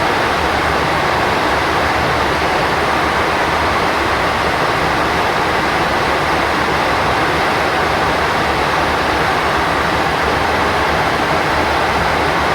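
Steady rushing noise inside a Boeing 737NG's cockpit at cruise altitude: the airflow over the nose and windshield, even and unchanging.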